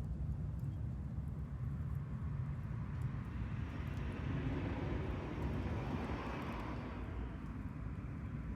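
A vehicle passing at a distance: a steady low rumble with a rushing noise that swells about two seconds in and fades away near the end.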